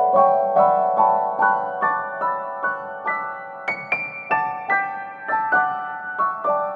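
Background piano music: a gentle melody of evenly spaced single notes that climbs to a high point about halfway through, then steps back down.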